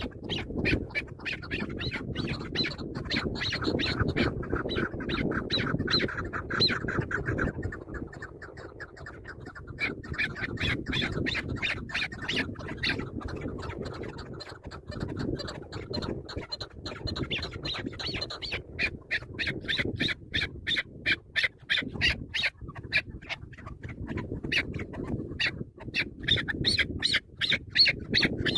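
Chukar partridges calling: long runs of rapid, repeated harsh clucking notes that thin out briefly twice.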